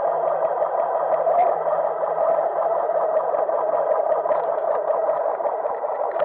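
Yamaha XVS1100 Drag Star's V-twin engine running steadily at idle with the bike standing still, heard muffled and distorted through the action camera's housing.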